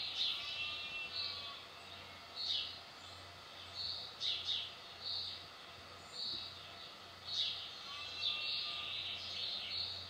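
Garden birds calling: short high chirps about once a second, with a few longer, raspier calls mixed in, over a faint low hum.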